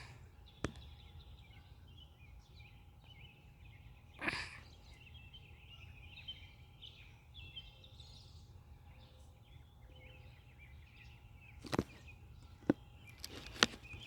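Small birds chirping faintly and steadily in the background outdoors, with a short rustle about four seconds in and a few sharp knocks near the end.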